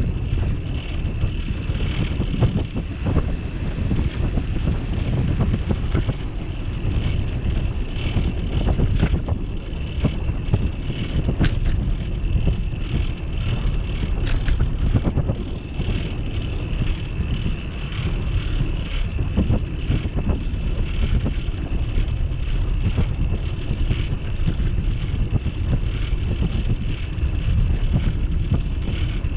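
Wind buffeting the microphone and rumble of a bicycle ride, steady throughout, with a faint steady high-pitched tone over it and a few brief clicks.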